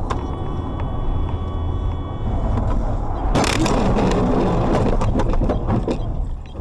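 Steady road and engine rumble of a moving car, then about three and a half seconds in a sudden loud crash, followed by a couple of seconds of crunching and clattering that dies away before the end.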